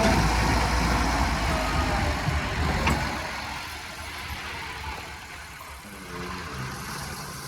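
Heavy quarry machinery at a primary rock crusher running with a low rumble and engine drone, with one sharp knock about three seconds in; the noise eases off in the second half.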